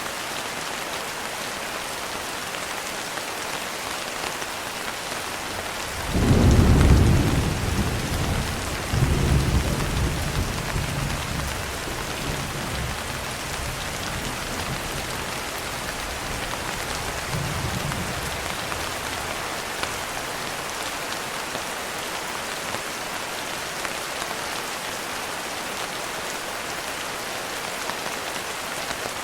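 Steady rain falling, with a clap of thunder about six seconds in that rumbles on for several seconds. A softer rumble of thunder follows about ten seconds later.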